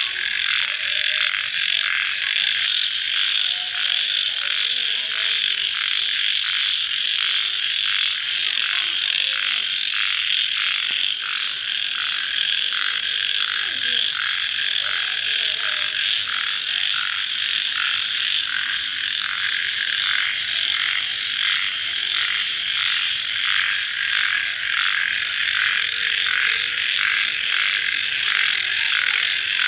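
Dense chorus of crickets chirping at night just after rain, a steady pulsing high trill that never lets up.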